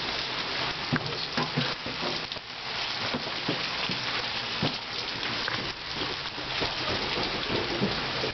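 Heavy rain pouring down in a thunderstorm, a steady hiss with many sharp taps scattered through it from small hailstones and big drops striking hard surfaces.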